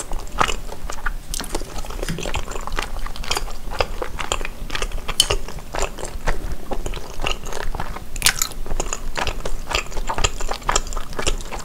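A person chewing tteokbokki, chewy Korean rice cakes in red sauce, close to the microphone: a dense run of sharp, irregular mouth clicks.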